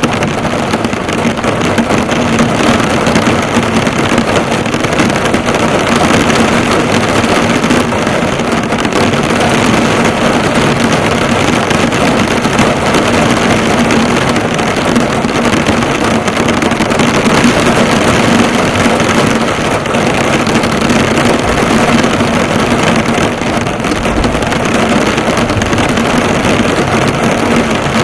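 Heavy rain pelting a car, the drops drumming on the bonnet in a steady dense patter, with a steady low hum underneath.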